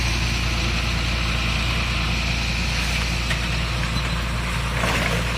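Vehicle engine idling steadily with a low, even hum; a rushing noise joins near the end.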